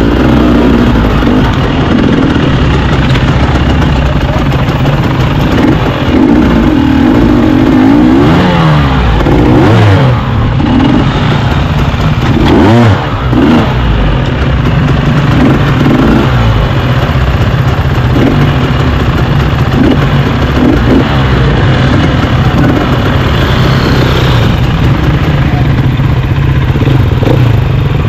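KTM 300 EXC two-stroke enduro motorcycle engine heard up close, revving up and down again and again as it is ridden over rough ground. A few short knocks come through around the middle.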